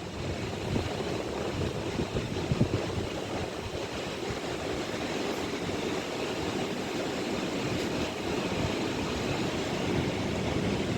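Class 807 electric multiple unit pulling out of the station: a steady rumble of wheels and running gear that grows a little louder as it gets under way.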